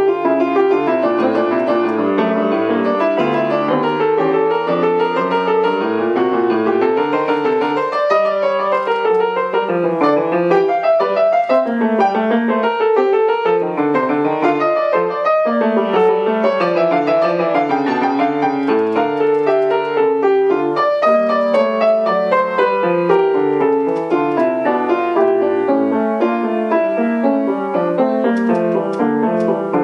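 Solo piano playing classical music: an unbroken stream of notes in several moving lines at once, steady in loudness throughout.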